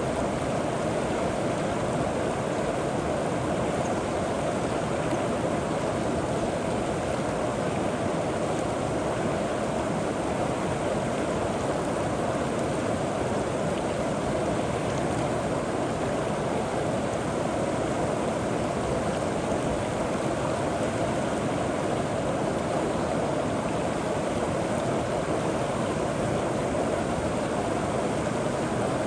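River water rushing and gurgling over rocks and pebbles, a steady, unbroken flow.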